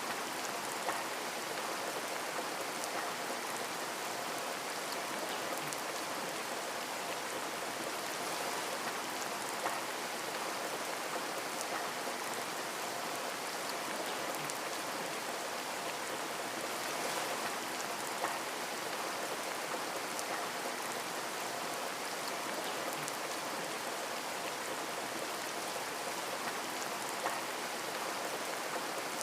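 Steady rain falling on a window, a constant even hiss with scattered individual drop ticks and an occasional louder drop.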